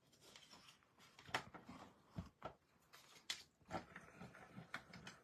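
Faint, scattered light taps and clicks of craft tools and cutting plates being handled and set down on a tabletop.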